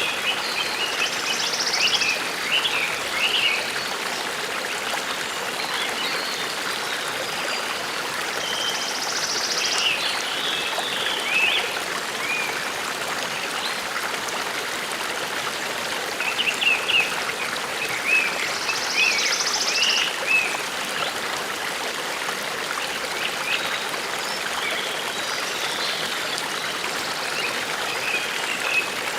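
A forest stream running steadily, with small birds chirping in short bursts over it several times, some calls ending in a brief buzzy trill.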